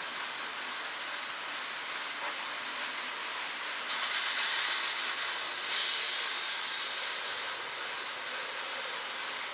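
H0 model trains running on a layout: a steady rushing hum of small wheels and motors on the track. A louder hiss comes in about four seconds in, grows stronger near six seconds and fades by about eight seconds.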